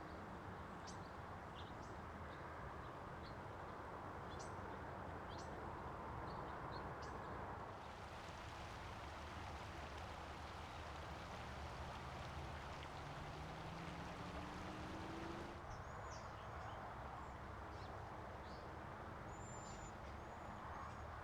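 Short, high bird chirps and calls, scattered through the first third and again near the end, over a steady low background rumble. In the middle a louder hiss covers the birds for several seconds.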